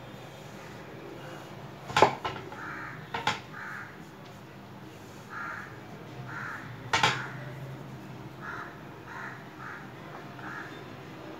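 A bird calls repeatedly in short notes, with a few sharp clinks or knocks, as of dishes being set down, about two, three and seven seconds in.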